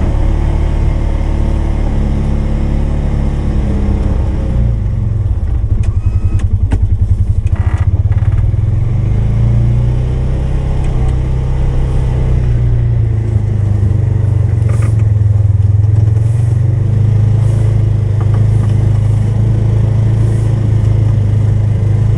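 Polaris 570 ATV engine running under load while plowing snow. The engine note shifts about four seconds in, then holds steadier, with a few faint ticks and clatter on top.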